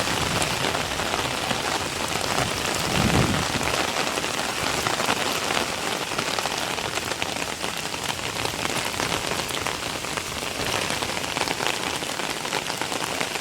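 Heavy rain falling steadily, a dense even hiss of drops, with a brief low swell about three seconds in.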